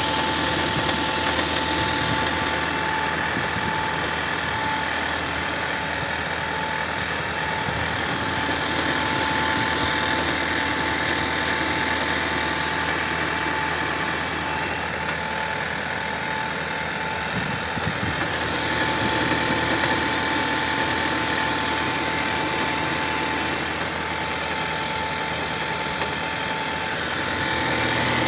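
Second-generation Chevrolet Volt's petrol range-extender engine running steadily with a knock, and running rough with a misfire ("троит"), which the owner says persists despite a clean air filter and new spark plugs.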